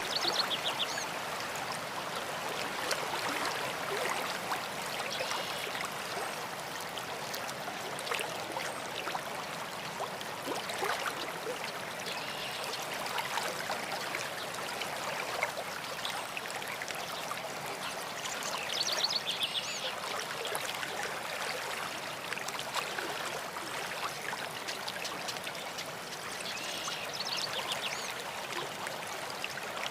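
A stream running steadily, with songbirds singing short phrases over it now and then: one near the start, a clearer burst of song about two-thirds of the way through and another near the end, with scattered chirps between.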